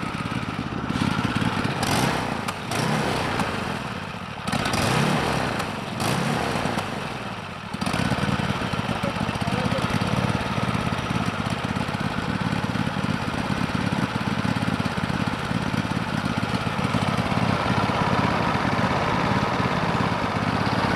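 Kohler 7000 Series V-twin engine on a Poulan Pro riding mower running, uneven with surges and dips in level for the first several seconds, then settling into a steady run.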